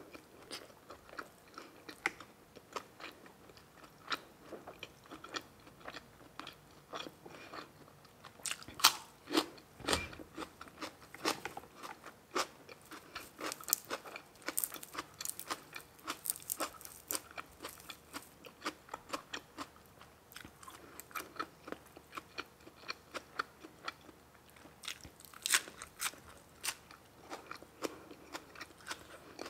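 A person chewing and biting food close to the microphone, with many short, crisp, irregular clicks and smacks and a few louder crunches partway through. The food is grilled pork meatballs and red sausage.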